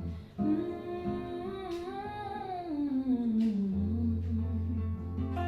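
A woman's wordless sung vocal line, rising in pitch and then falling away over about four seconds, over acoustic guitar accompaniment.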